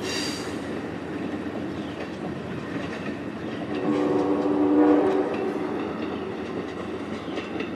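Amtrak Capitol Limited passenger train passing, its wheels rattling over the rails. Its multi-tone horn sounds once for about a second and a half, roughly four seconds in.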